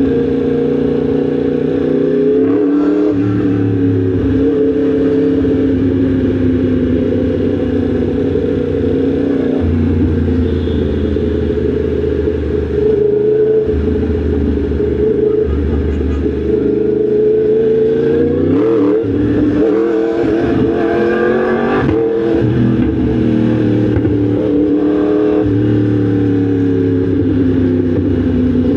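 Yamaha MT-10 SP's crossplane inline-four engine under way. Its pitch climbs and falls back several times, about three seconds in and again around eighteen, twenty-two and twenty-five seconds in.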